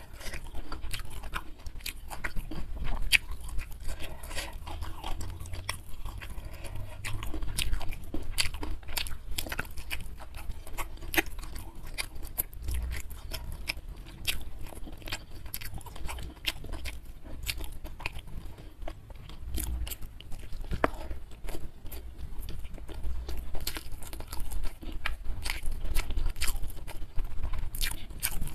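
Close-miked chewing of a hand-eaten meal of fried fish and rice with sambal, with many small sharp crunches and wet mouth clicks.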